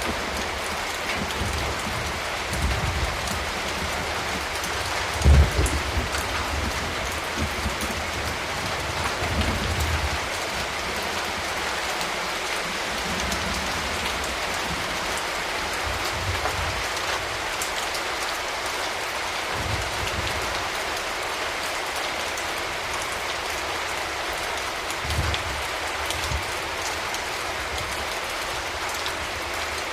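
Steady rain falling on surfaces, with a few short low thumps, the loudest about five seconds in.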